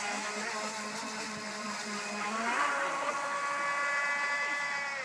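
Radio-controlled model boat's motor whining at a steady pitch, then rising sharply about two seconds in as the throttle is opened and holding the higher whine until it drops back at the end.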